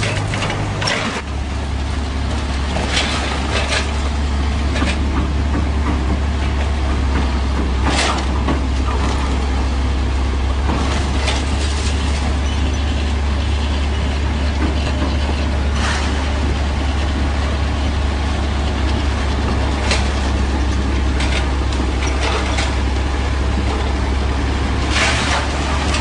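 Crane engine running with a steady low drone that steps down in pitch about a second in, with a few sharp clicks or knocks scattered over it.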